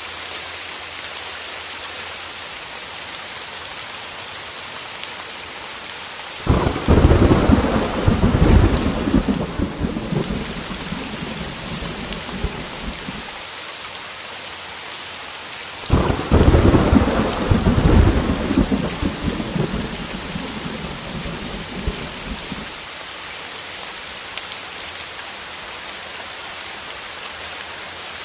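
Heavy rain falling steadily, with two rolls of thunder. Each roll starts suddenly, the first about a third of the way in and the second just past halfway, and rumbles on for several seconds before fading back under the rain.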